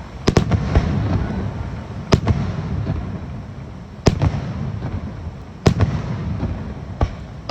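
Aerial fireworks bursting overhead: five or so sharp booms a second or two apart, each followed by a long low rumble and crackle as the shells echo and fade.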